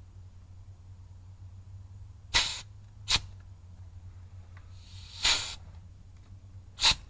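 Pneumatic grease gun firing in four short bursts of air, the third one longer, as it pumps grease into a driveshaft grease nipple.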